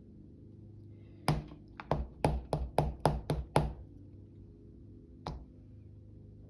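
An alphabet stamp tapped down about eight times in quick succession on a tabletop, as when inking and stamping letters, then one more tap a moment later.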